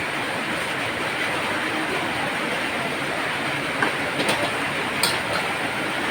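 Heavy rain falling steadily, with a few short sharp clicks about four to five seconds in.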